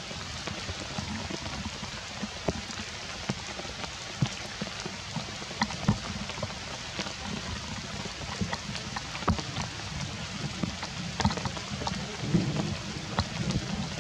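Steady rain falling on rocks and leaves, with many sharp drops and drips striking close by.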